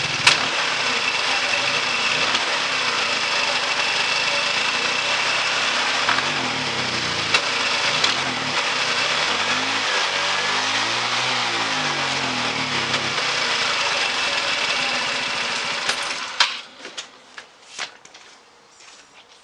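GY6 150cc single-cylinder scooter engine running, its pitch rising and falling unevenly, then dropping away suddenly about 16 seconds in, leaving a few knocks. This is the engine cutting out once warm, which the owner blames on a faulty aftermarket performance CDI box.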